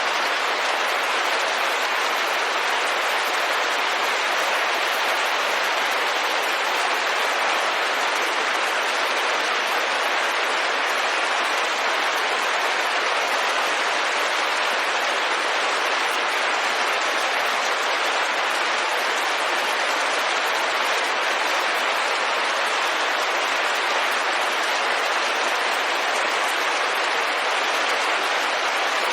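Rain falling steadily on a window, an even hiss with no distinct drops or changes.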